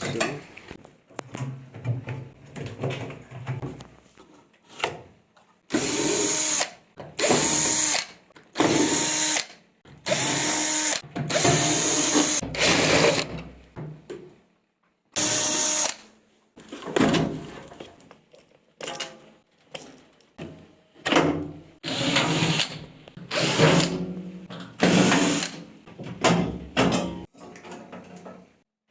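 Electric drill-driver running in short bursts of about a second, spinning up and stopping again about a dozen times, with clattering handling sounds in between.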